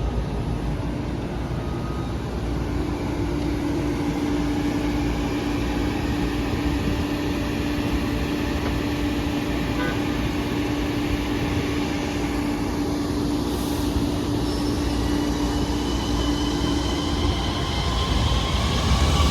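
Long Island Rail Road train running at a station platform: steady low rumble with a held hum, and a whine rising in pitch near the end.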